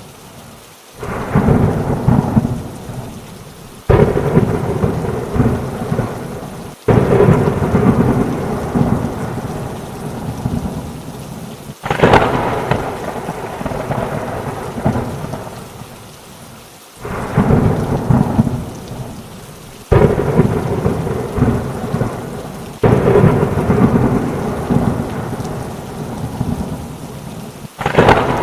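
Thunderstorm with steady rain and repeated thunderclaps, about eight of them. Each one starts suddenly with a loud crack and fades into a rumble over a few seconds before the next one cuts in.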